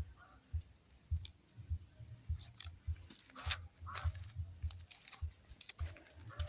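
Irregular low thumps, about two a second, with scattered crackling rustles: footsteps and the phone being handled while walking through vegetation.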